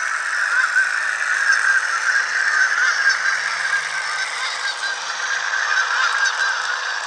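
Horn effect from a Galloping Goose sound decoder, played through the small speaker of an HO-scale Budd RDC model: a continuous run of honking that sounds like geese.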